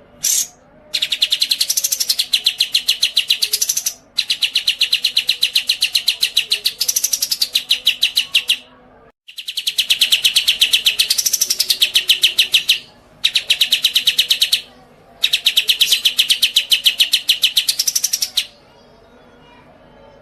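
Caged songbird singing a series of long, very rapid high trills, each lasting a few seconds with brief rises in pitch, separated by short pauses, after a single short chirp at the start.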